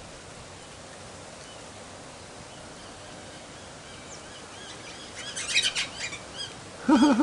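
Pale-headed rosellas calling over steady wind noise: a few faint chirps, then a quick run of high chirping notes about five seconds in and a few more just after. A short, loud, lower-pitched sound comes near the end.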